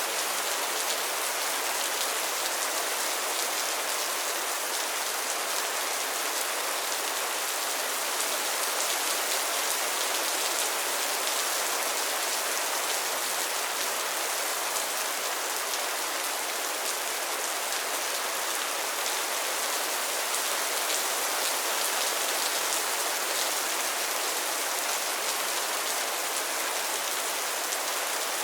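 Steady rain falling on a pond's water and floating lily pads, an even, dense patter of drops with no change in strength.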